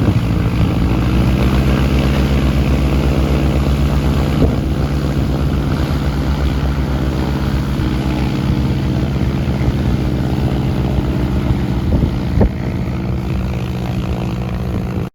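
Light aircraft's piston engine and propeller running steadily at close range, a low drone with a fast regular beat. It stops abruptly at the end.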